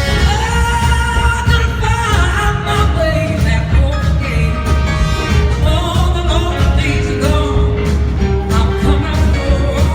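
A live blues-rock band playing, with a steady beat and held lead notes that bend in pitch now and then.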